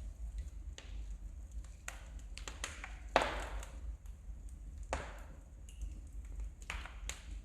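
Wood fire in a fireplace crackling: irregular sharp pops and snaps over a low steady rumble, with a louder pop about three seconds in and another about five seconds in.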